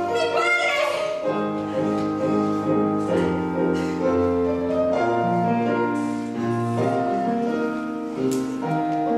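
Piano accompaniment for a musical-theatre song, playing a slow passage of held chords that change every second or so.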